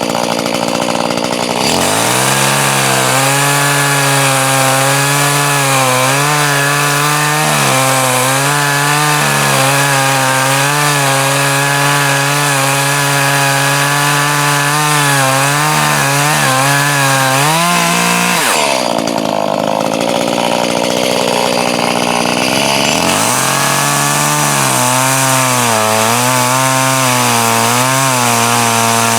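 Chainsaw cutting through a log. The engine starts at high revs, its pitch drops as the chain bites in about two seconds in, and it holds there under load with small wavers. Around two-thirds of the way through it briefly revs up and falls away, then bogs back down into the cut.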